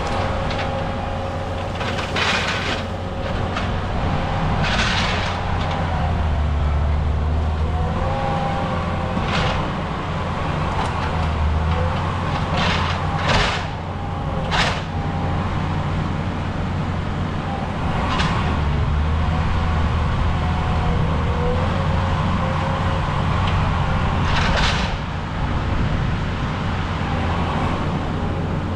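Skid steer's engine running continuously, swelling under load several times, with about eight sharp knocks scattered through it.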